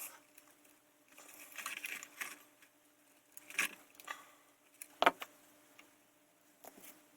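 Small clicks, ticks and soft rustling of hands handling thin wires and plastic model parts while twisting LED leads together. The sharpest click comes about five seconds in.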